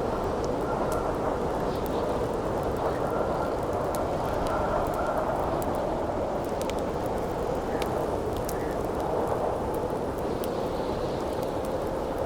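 Steady wind blowing, with a faint whistle in the first few seconds, over the scattered sharp crackles and pops of a burning wood campfire.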